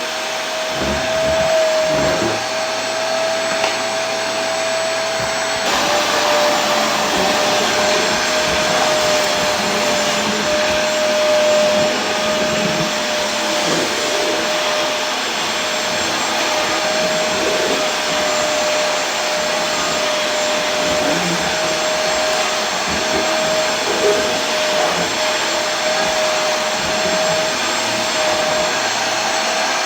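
Vacuum cleaner running steadily: a continuous rushing hiss with a steady motor whine. The whine steps slightly lower in pitch about six seconds in.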